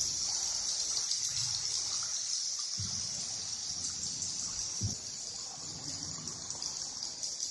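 Water trickling and lapping, with soft irregular low sloshes, under a steady high-pitched hiss.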